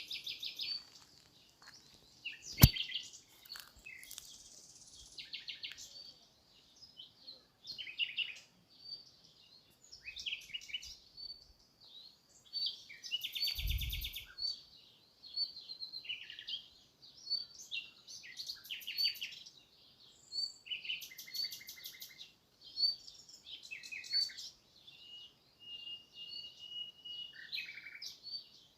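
Small birds chirping and twittering again and again in short high-pitched calls and buzzy trills. A sharp click comes about two and a half seconds in, and a brief low thump near the middle.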